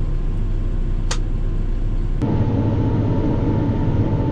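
Farm harvesting machinery's engine running steadily, heard from inside the cab. There is a single sharp click about a second in. Just after two seconds the sound changes abruptly, and a steady hum joins the rumble.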